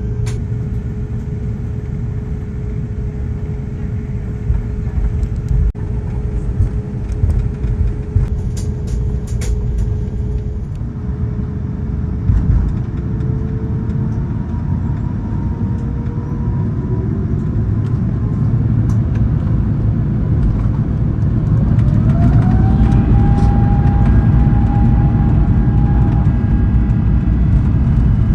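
Airliner cabin noise of an Airbus A350-900: a steady low rumble with a faint engine tone, then about three-quarters of the way through the Rolls-Royce Trent XWB engines spool up with a rising whine that levels off into a steady higher tone and the rumble grows louder, as takeoff thrust is set.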